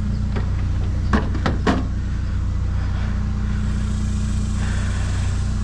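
A vehicle engine idling steadily, with three short sharp knocks a little over a second in.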